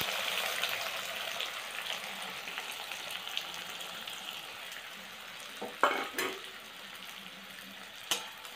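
Chopped onions sizzling in hot oil in a steel kadai, the frying hiss strongest as they go in and slowly easing off. There are a couple of short clatters about six seconds in, and a metal spoon taps the pan near the end.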